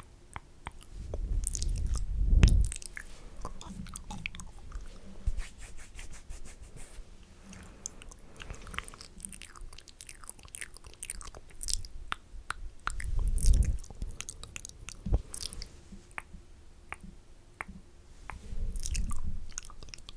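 Close-miked wet mouth sounds: a steady run of spitty clicks, lip smacks and tongue pops. Three louder low rushes of noise come near the start, past the middle and near the end.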